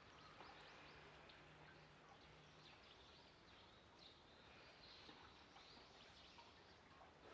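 Near silence: faint outdoor background noise with small birds chirping faintly and often.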